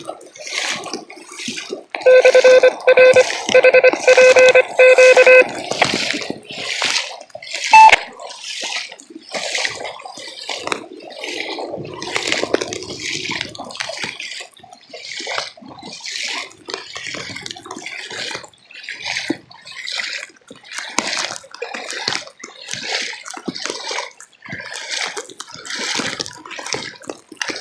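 Splashing, rushing water noise throughout. A loud electronic tone pulses steadily for about three seconds, starting about two seconds in.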